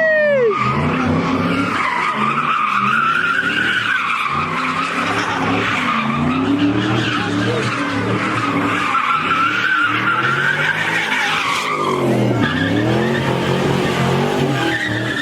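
A car doing donuts on pavement: the tyres squeal continuously while the engine revs rise and fall in slow waves every few seconds.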